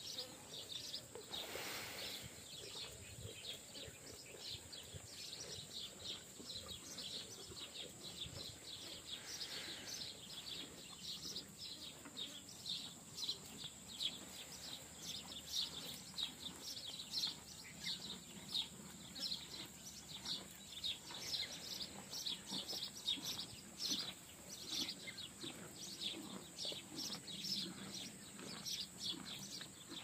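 Small birds chirping over and over in quick short chirps, with a steady high-pitched hiss underneath.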